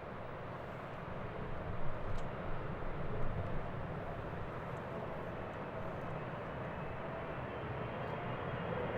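Jet engines of a Boeing 777 freighter in flight: a steady rushing noise that grows slowly louder, with a faint high whine coming in about halfway through.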